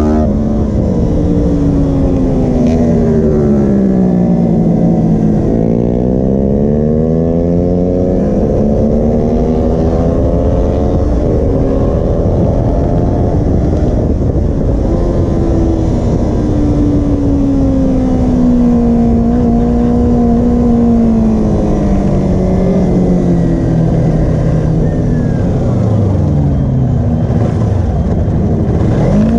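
Kawasaki Ninja 250R's parallel-twin engine heard from onboard at track speed, its pitch rising and breaking at gear changes and sagging through corners, over a heavy rush of wind on the microphone. Near the end the engine note steps down through downshifts, then climbs again.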